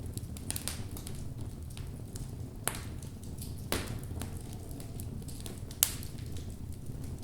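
Wood fire burning in a fireplace: a steady low rumble of the flames with irregular crackles and pops from the burning logs, the loudest pop a little before the end.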